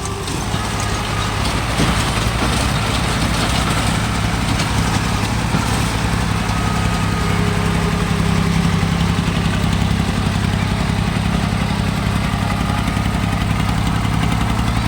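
Diesel tractor engine running steadily at high revs, getting louder over the first couple of seconds and then holding.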